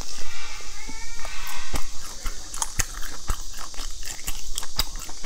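A person biting into and chewing a fried sesame ball (a sesame-coated glutinous rice ball). From about one and a half seconds in come many sharp, irregular clicks of mouth and food.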